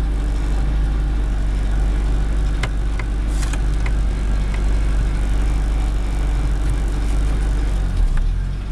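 Fiat 600's small rear-mounted four-cylinder engine running at a steady speed, heard from inside the cabin with a deep rumble, and a few faint clicks about three seconds in.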